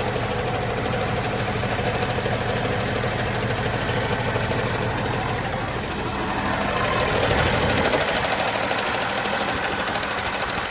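John Deere 6081H six-cylinder diesel engine running steadily at idle, sounding healthy. It swells a little louder for a second or two about seven seconds in.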